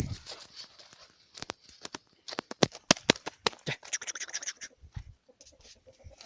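Turkish shepherd dog puppies scuffling at play: irregular scratching, patter and sharp clicks, with a brief scrabbling burst about four seconds in and a few soft thuds after it.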